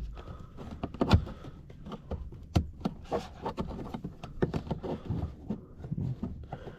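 Plastic car door trim being pried and handled: a string of irregular clicks, taps and knocks of hard plastic, the sharpest about a second in and another midway.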